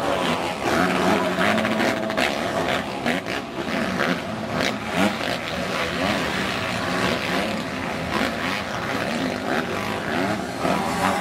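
Several motocross bikes' engines revving hard, the pitch rising and falling and overlapping as the riders accelerate, shift and pass.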